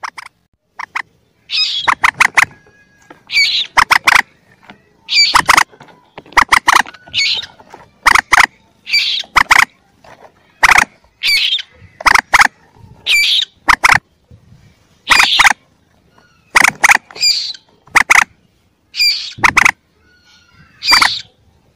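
Calls of young common moorhens (mandar): short, sharp squawks, often in twos or threes, repeated about every second, played back as a lure to draw adult birds.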